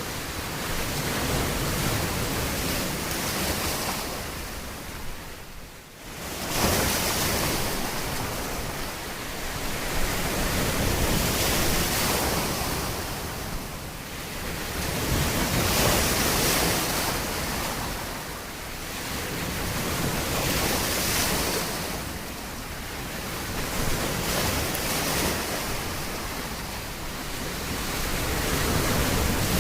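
Waves breaking and washing up on a beach, swelling and ebbing every four to five seconds, with a brief lull about six seconds in before the next wave surges.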